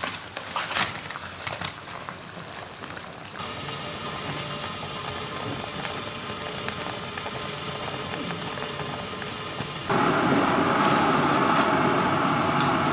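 Pot of soup cooking on the stove. A few light clinks and stirring sounds come first, then a steady hiss of heat and bubbling that turns abruptly louder about ten seconds in.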